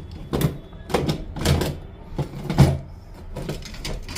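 Irregular knocks and clacks, about six in four seconds, of hard parts being handled while an electrical switch board is being fitted.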